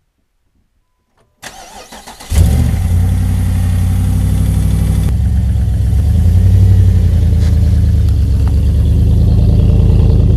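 Jeep Commander engine started: the starter cranks for about a second, then the engine catches and runs loudly and steadily. It swells a little as the SUV pulls away towing a trailer.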